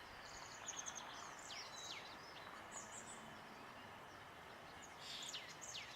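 Small birds chirping and giving short whistled calls, faint and off and on, over a steady outdoor background hiss.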